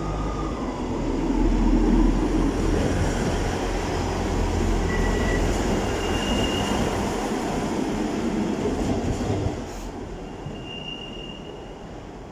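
Northern Class 158 diesel multiple unit with Perkins engines, running with a steady rumble and a few short high wheel squeals. The loud low rumble drops off sharply about nine and a half seconds in and then fades away.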